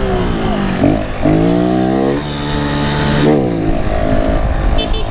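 Honda Pop 110i's small single-cylinder four-stroke engine revving through a loud aftermarket tin exhaust: the pitch falls in the first second, climbs again under throttle, holds, then drops off about three and a half seconds in.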